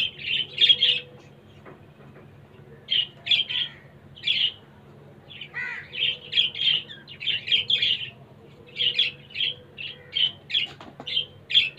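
Birds chirping: quick runs of short, high chirps with brief pauses between them.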